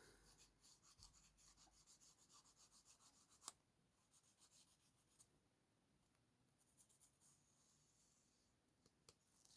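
Near silence, with faint rubbing and scratching on paper and a single small click about three and a half seconds in.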